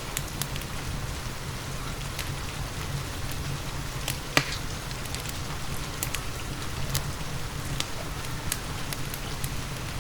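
Steady rain mixed with a crackling wood fire in a fireplace. Scattered sharp pops run through it, and the loudest comes about four and a half seconds in.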